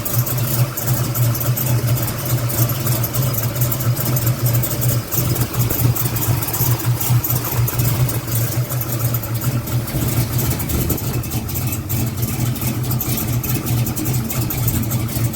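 Cammed big-block V8 idling steadily with a choppy, pulsing lope from its big cam.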